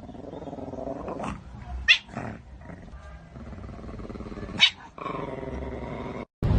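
A pug growling in a long, rough rumble, broken by three short high yips.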